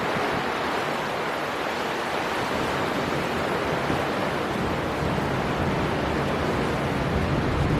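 Storm wind and sea surf blending into a steady, even rush of noise, with no distinct gusts or wave breaks standing out.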